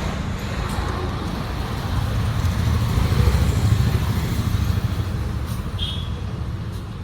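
A motor vehicle's engine rumbling, growing louder about three seconds in and then fading.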